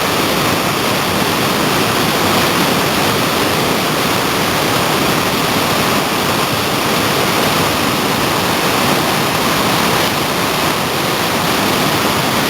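Whitewater rapids rushing: a loud, steady, unbroken wash of moving water.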